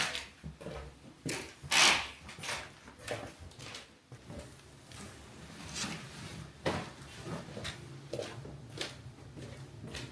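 Bedroom tidying: an irregular series of short knocks and rustles as things are handled and set down, the loudest about two seconds in.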